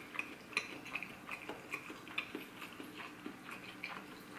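Close-miked chewing of a bite of deep-fried corn dog: an irregular run of small clicks and mouth sounds.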